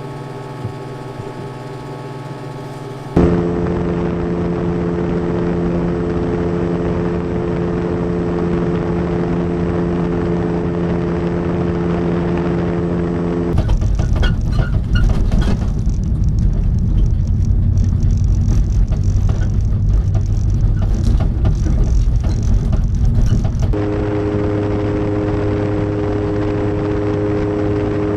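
Brief music, then after a sudden cut a steady motor drone holding one pitch. About ten seconds later a rougher, fluttering low rumble takes over for about ten seconds, then a steady drone at a different pitch returns.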